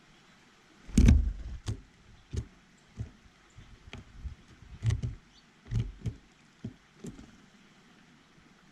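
A series of about ten irregular knocks and thumps close to the microphone, the first about a second in the loudest, the rest tapering off by about seven seconds in.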